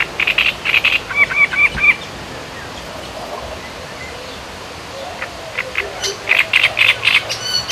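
Birds calling: quick runs of short chirping notes for the first two seconds and again from about five and a half seconds on, over a steady faint outdoor hiss.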